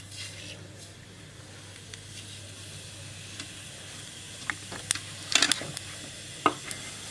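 Cumin seeds sizzling in hot ghee in a small pan: the tempering (tadka) stage. It is a steady sizzle with a few sharp crackles about five seconds in and again near six and a half seconds.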